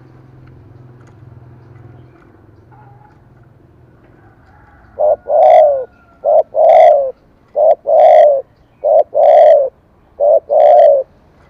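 Spotted dove cooing in the voice type that Vietnamese dove keepers call 'thổ cấn sấm'. It gives five coos about a second and a quarter apart, each a short note followed by a longer, lower-sliding one, starting about five seconds in.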